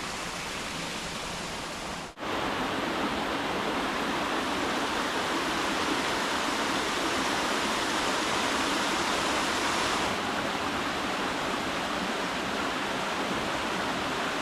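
Steady rush of creek water flowing over rocks. It cuts off for an instant about two seconds in and comes back louder.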